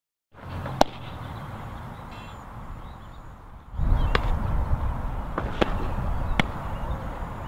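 A softball smacking into a glove with a sharp pop about a second in, then a few lighter sharp knocks against steady outdoor background noise that grows louder midway.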